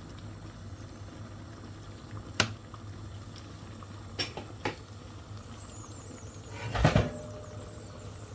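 Kitchen handling sounds over a steady low hum: a few light clicks, then a short louder clatter of a pot or lid near the end.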